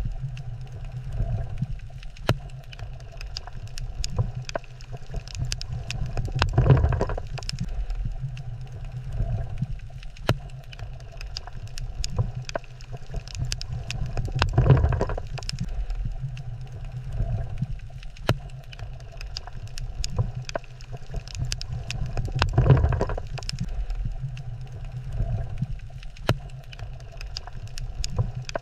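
Underwater ambience on a coral reef: a steady low rumble of moving water that swells into a louder rush about every eight seconds, with many scattered sharp clicks and crackles.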